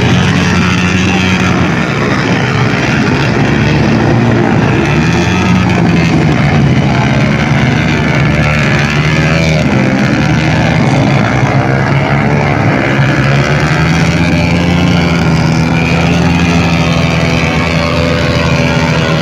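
Motocross dirt bike engine running and revving, its pitch rising and falling.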